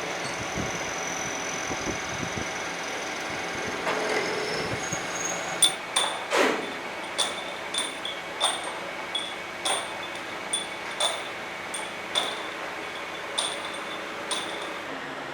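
Workshop machinery running with a steady hum. About a third of the way in, a series of about a dozen sharp metallic clinks begins, irregularly spaced, each with a brief ring, like steel pieces striking steel.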